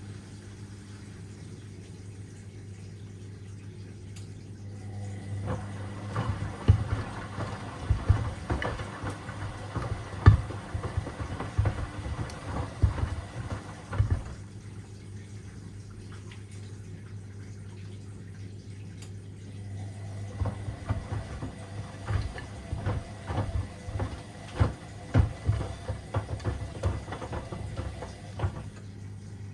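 Washing machine running with sneakers in the drum: a steady motor hum, with two long spells of irregular knocks and thuds from the shoes tumbling, separated by quieter pauses.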